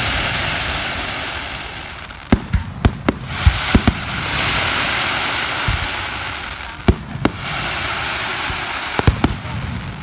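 Fireworks going off: a long hissing rush that swells and fades, broken by sharp bangs in a cluster about two to four seconds in, a pair near seven seconds and another pair near nine seconds.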